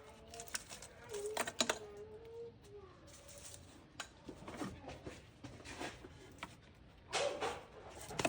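Light clicks and rattles of plastic wiring-harness clips and connectors being handled on an engine, with louder clusters about a second in and near the end.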